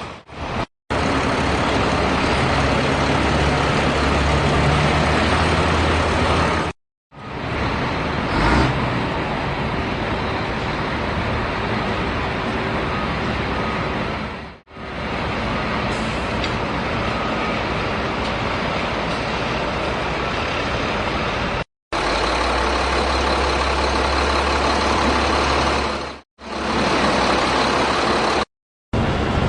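Heavy vehicle engine running, heard in several edited stretches that each cut off abruptly, with a short knock about eight and a half seconds in.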